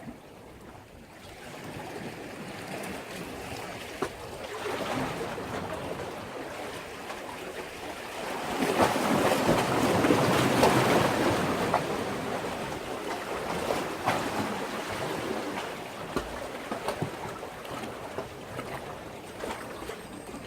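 Sea waves surging in against a breakwater: the surf builds over several seconds, peaks near the middle with a fizzing crackle of foam, then slowly draws back.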